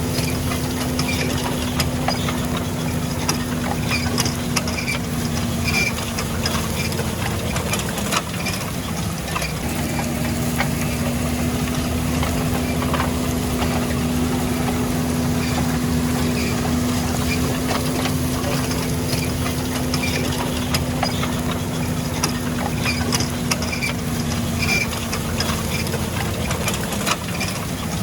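Fendt tractor's diesel engine running steadily while ploughing. Its note dips briefly about nine seconds in and again near the end.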